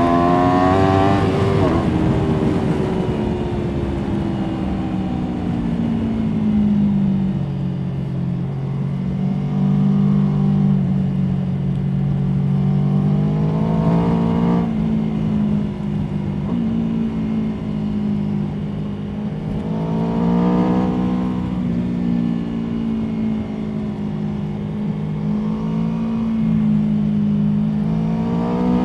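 Aprilia Tuono V4 motorcycle's V4 engine, heard onboard while riding: the revs drop sharply in the first couple of seconds, then hold fairly steady, with brief rises in revs about halfway, about two-thirds of the way through, and near the end.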